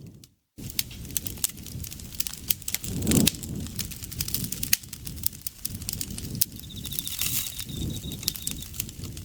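Campfire crackling and popping with many sharp snaps over a low rumble of burning wood. The sound cuts out for a moment just after the start, and a steady, high-pitched insect trill joins for about two seconds near the end.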